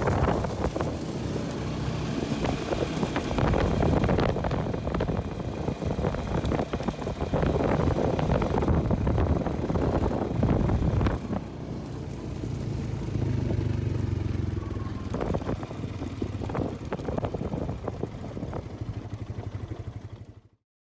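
A vehicle engine running, its sound swelling and easing, cut off abruptly near the end.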